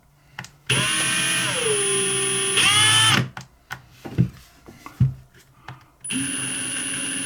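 Small electric drill running in two short bursts, drilling a small hole in a lighter part. In the first burst the motor's whine drops in pitch as the bit bites into the metal, then rises again just before it stops. A few light knocks follow, then the drill runs again at a steady speed.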